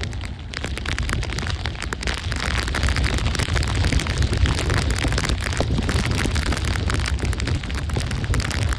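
Tropical-storm wind buffeting the microphone: a heavy, steady low rumble with a hiss and crackle over it.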